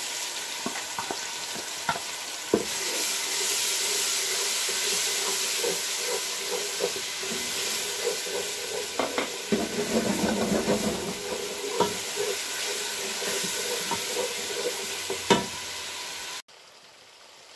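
Ginger-garlic paste frying in hot oil with browned onions in a non-stick pot: a steady sizzle, with a wooden spatula scraping and tapping the pan as it is stirred. The sizzle grows louder about two and a half seconds in and cuts off suddenly near the end.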